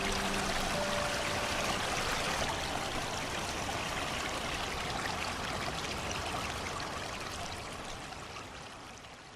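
Steady rushing of running water like a stream, used as green noise for sleep, with a soft held melody note dying away in the first two seconds; the water sound fades out toward the end.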